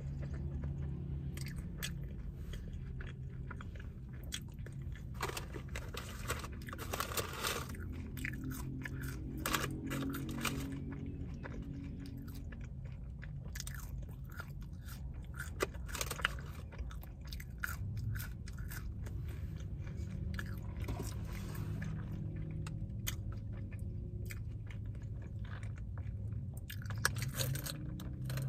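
Close-up chewing and biting of a burger: wet mouth sounds with many small clicks and crunches, over a steady low hum. Near the end, a sip through a straw.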